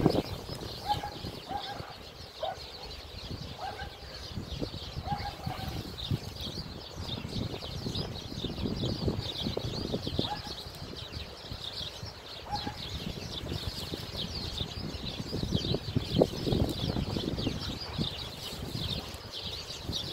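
Small birds chirping and twittering in a dense, continuous chatter, over an uneven low rumble that grows louder twice.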